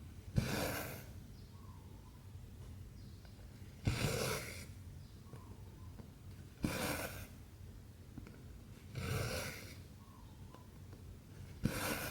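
Cotton embroidery thread drawn through 14-count cross-stitch fabric, five strokes each about half a second long and about two and a half seconds apart. Each stroke starts with a small tap as the needle goes through, followed by a rasping pull of the thread.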